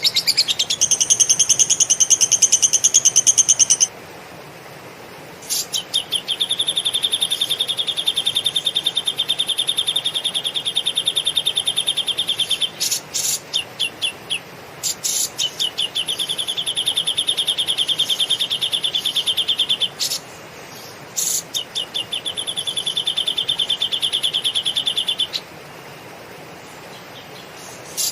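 A songbird singing long, rapid, evenly pulsed high trills, each several seconds long, broken by short pauses and a few stuttering runs of separate notes.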